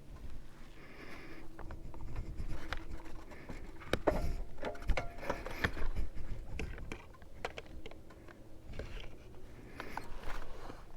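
Irregular rustling, clicks and knocks of handling close to the microphone, loudest in a cluster of knocks about four to six seconds in.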